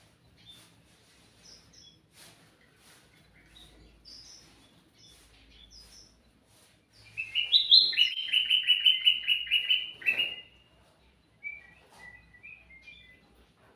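A kutilang mas, a bulbul, sings. Scattered short chirps and faint clicks come first. About seven seconds in there is a loud, rapid run of repeated notes lasting about three seconds, followed by a few softer notes.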